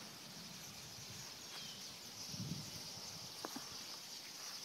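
Faint outdoor ambience: a steady high-pitched hiss, with one thin bird-like note about a second and a half in, a soft low murmur about halfway through and a couple of light clicks near the end.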